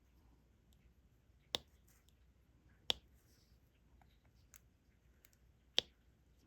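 Sharp, isolated clicks of a diamond painting pen tapping drills onto the canvas: three louder clicks, about one and a half, three and six seconds in, with fainter ticks between.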